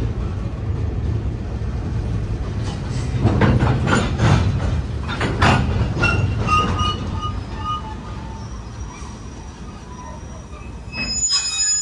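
Train running through the station: a steady rumble with a run of sharp wheel clacks over the track about three to five and a half seconds in. Thin high-pitched wheel squeals follow as the rumble fades, with a brief louder squeal near the end.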